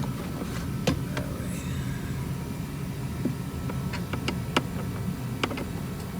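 Scattered sharp clicks and taps of a screwdriver and small screws against the heater core box, about six over the few seconds, over a steady low hum.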